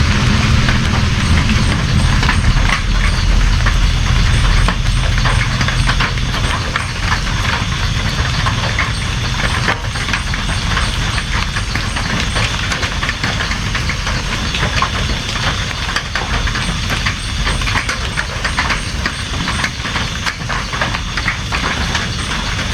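Steady rain falling, a dense patter of drops. A low rumble underneath fades out over the first several seconds.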